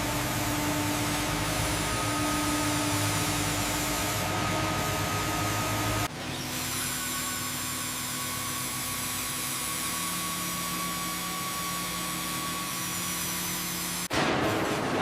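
Sawmill machinery running steadily, a continuous mechanical whir with a few held tones. The sound changes abruptly about six seconds in and again near the end.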